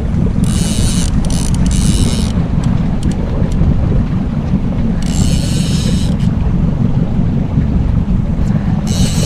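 Fishing boat's motor running steadily at trolling speed, a dense low rumble, with wind buffeting the microphone. Three bursts of high hiss come in over it, about half a second in, at about five seconds and near the end.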